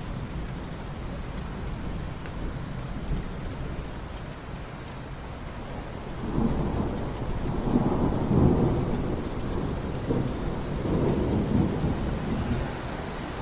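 Steady rain with a long roll of thunder that rises about halfway through, swells twice and fades near the end.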